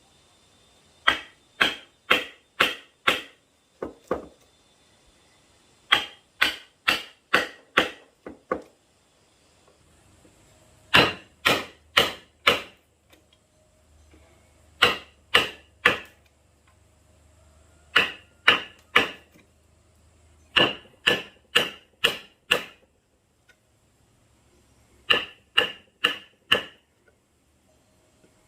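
A hammer driving nails into wood for a handmade bed frame, in quick bursts of three to six blows about three a second, with short pauses between bursts.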